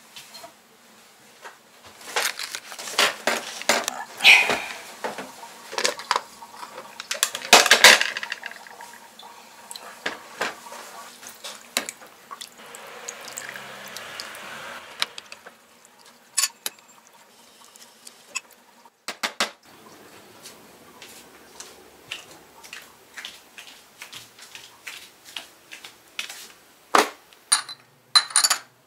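Dishes and cutlery clinking and knocking in a string of irregular sharp clatters, busiest early on and again near the end.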